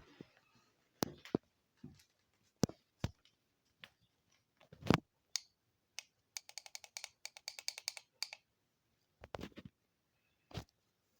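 Scattered sharp clicks and knocks, irregularly spaced. One louder knock comes about five seconds in, and a quick run of clicks follows at about ten a second for nearly two seconds.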